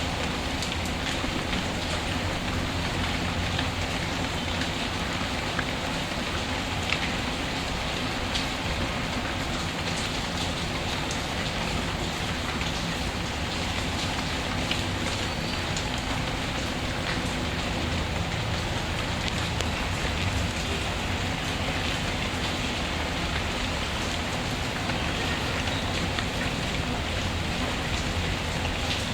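Steady rain falling, with a few sharp pops from a crackling wood fire.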